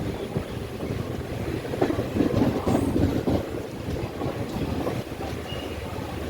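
Passenger train running along the track, heard from inside the carriage: a steady low rumble with irregular clacks from the wheels.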